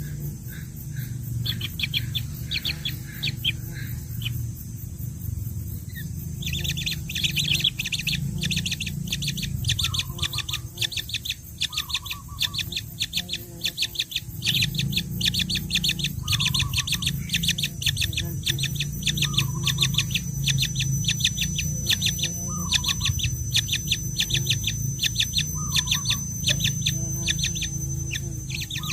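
Baby birds giving rapid, high begging chirps. The calls are scattered at first and become a dense, continuous run about six seconds in, with a low rumble underneath.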